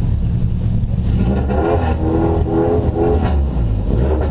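Car engine running through an open exhaust with no silencer: a loud, steady low rumble.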